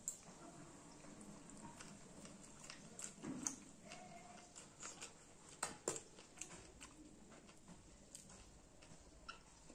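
Faint close-up chewing of rice and curry eaten by hand: soft wet mouth sounds broken by a few short, sharper crunches, the loudest about three and a half and six seconds in.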